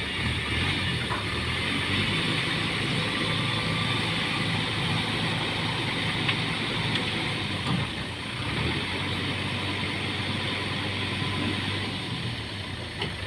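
Loaded dump truck's diesel engine running steadily while the truck tips its load, after failing to climb a slippery muddy track. The engine note dips briefly about eight seconds in.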